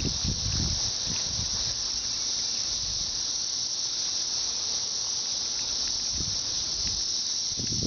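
Chorus of periodical cicadas singing en masse: a steady, unbroken high-pitched drone.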